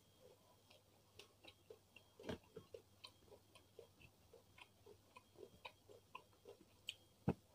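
Faint chewing of a mouthful of rice and beef rendang: a run of soft wet mouth clicks, about two or three a second. A sharper click comes about two seconds in and another near the end.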